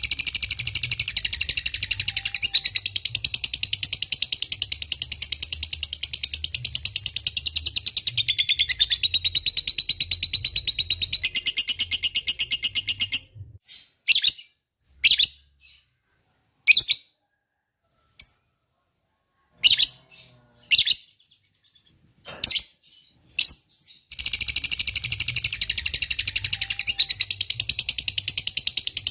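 Lovebird ngekek: a long, rapid chattering trill of high repeated notes. After about thirteen seconds it breaks into scattered short chirps with pauses, and the rapid trill resumes about five seconds before the end.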